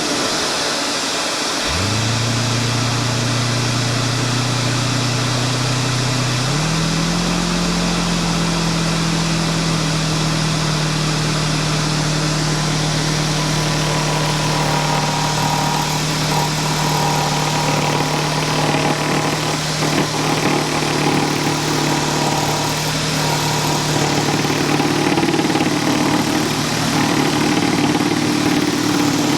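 Electric workshop machinery starting up and running. A steady rush comes on suddenly, then a motor spins up within about a second to a steady hum. A few seconds later its pitch steps up, and it runs on steadily.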